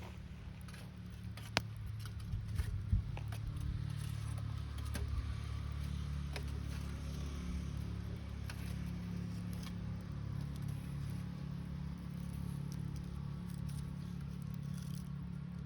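Wood campfire crackling with a few sharp pops in the first few seconds, over a steady low droning hum.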